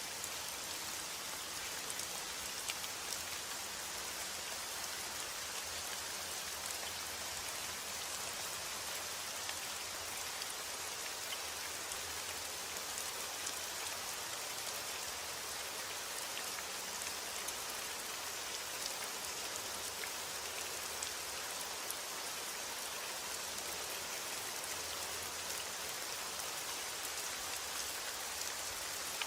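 Steady rainfall, a continuous even hiss of rain with scattered small drop ticks.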